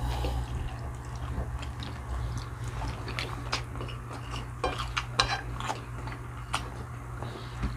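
Cutlery clinking and scraping against plates in short, irregular clicks over a steady low hum.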